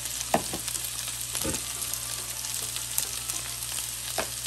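Steak bites with onions and peppers sizzling in oil and melting butter in an electric skillet, with a few short knocks of tongs against the pan.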